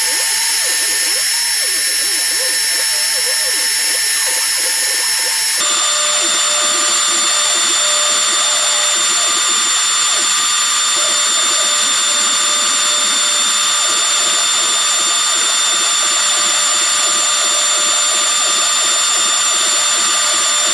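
Small 4060 CNC router's spindle running with a steady high whine, its tones shifting abruptly about five and a half seconds in.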